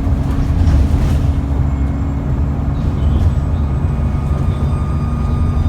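Cummins ISBe 6.7-litre diesel engine of an ADL Enviro400 double-decker bus running with a steady low rumble. From about two seconds in, thin high-pitched whine tones of the turbocharger rise over the engine note.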